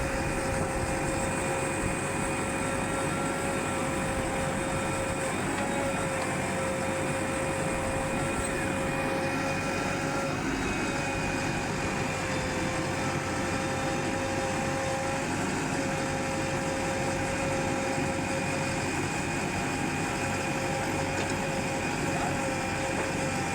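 Heavy machine engine running steadily, with a steady high whine over the engine noise.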